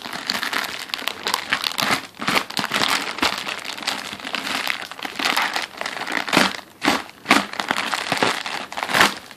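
Packaging being crumpled and pulled off by hand: continuous crinkling with many sharp crackles.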